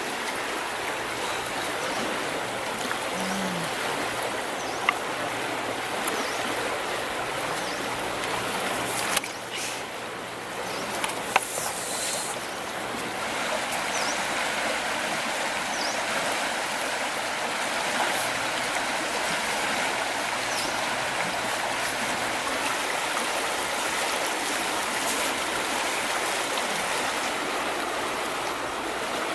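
Running stream water, a steady rushing and trickling, with a few brief clicks.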